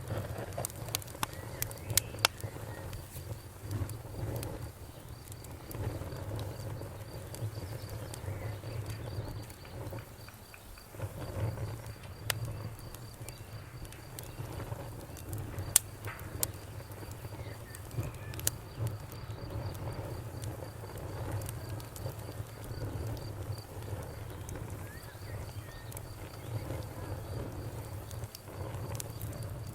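Bonfire crackling with sharp pops scattered irregularly over a low, steady rumble of the burning fire, while crickets chirp steadily and faintly in the background.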